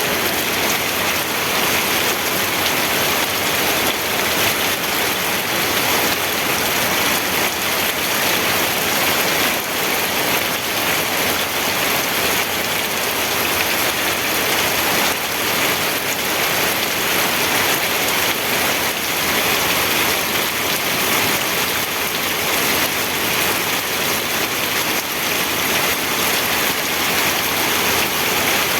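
Steady rainfall: an even, unbroken hiss of rain on surfaces with no let-up.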